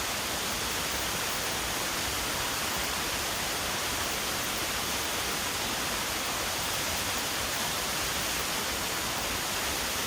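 Half-frozen waterfall rushing in a steady, even hiss that never changes.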